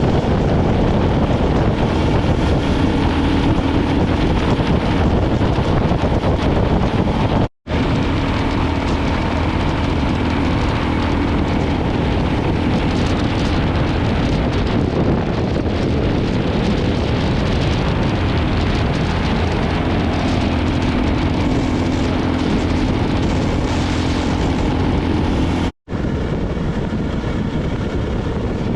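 KTM single-cylinder dual-sport motorcycle engine running at a steady cruise, heavily mixed with wind buffeting the microphone. The sound drops out for an instant twice, about a third of the way in and near the end.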